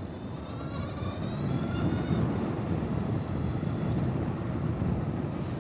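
Zero SR/F electric motorcycle under way, its electric motor whine rising in pitch from about half a second to two seconds in, over steady wind and road noise.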